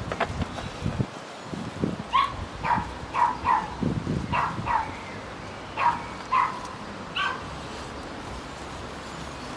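A dog barking about ten times in short, sharp barks, some in quick pairs, starting about two seconds in and stopping a couple of seconds before the end.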